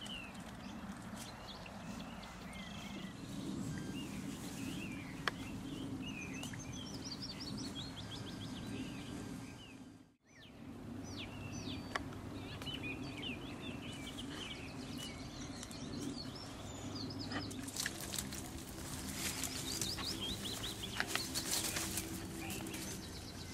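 Small birds chirping and singing in short rising and falling phrases over a steady low background rumble. The sound drops out briefly about ten seconds in. Near the end comes a run of sharp clicks.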